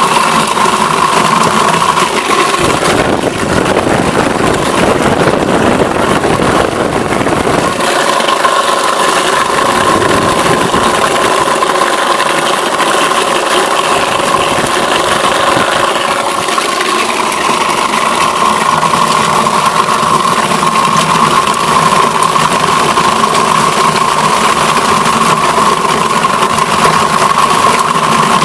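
Homemade apple crusher driven by an old Zarya 2M washing-machine motor, running steadily while chopping apples, with a steady high whine and a rattling churn. It grows rougher and fuller from about two to eight seconds in.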